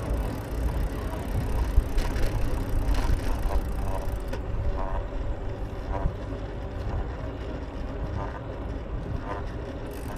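Wind rumbling on the microphone of a moving bicycle, steady throughout, with brief fainter higher sounds breaking through now and then.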